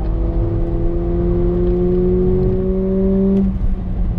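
Mercedes-AMG A45's turbocharged four-cylinder engine pulling under acceleration, heard from inside the cabin, its pitch rising slowly. The engine note drops away suddenly about three and a half seconds in.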